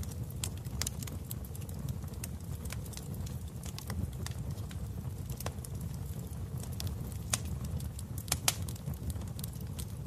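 Wood fire burning in a fireplace: a steady low rumble of flames with irregular sharp crackles and pops, the loudest coming about eight and a half seconds in.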